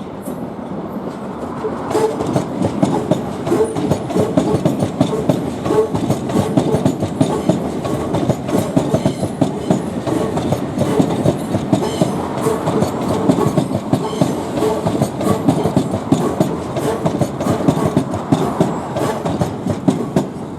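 Southern Class 377 Electrostar electric multiple unit, two units coupled, running past at low speed with its wheels clattering rapidly over rail joints and pointwork. The clatter grows louder about two seconds in and stays dense and even.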